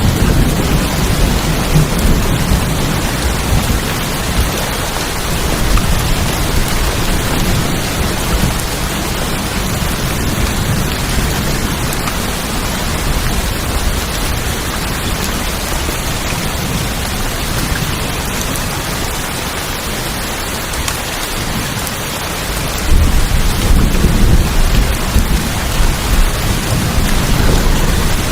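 Steady heavy rain drumming on a tin roof, with thunder rumbling low at the start. The thunder comes back louder for the last few seconds.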